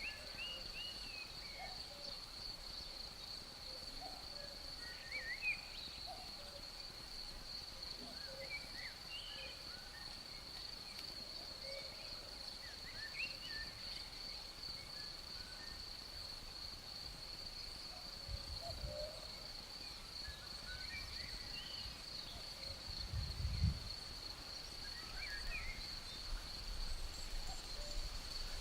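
Forest ambience: a steady, high cricket chorus, with scattered short bird chirps and a few faint low calls. Two short low rumbles of breeze on the microphone, about two-thirds of the way in and again a few seconds later, the second the loudest.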